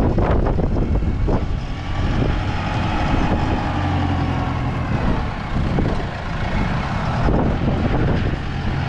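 Tractor engine running steadily under load while its front loader digs into a deep snow drift and lifts the snow.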